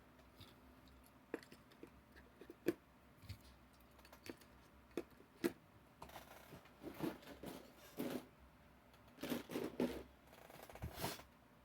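Faint handling noises from packaged toy trucks being picked up and moved: scattered clicks, light scrapes and crinkles of plastic packaging, a few more clustered near the end.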